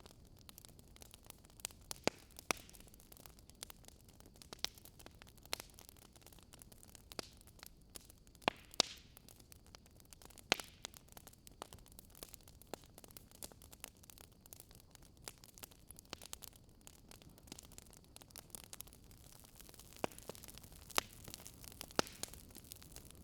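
Wood fire crackling softly: irregular sharp pops and snaps over a faint steady hiss, with a few louder snaps.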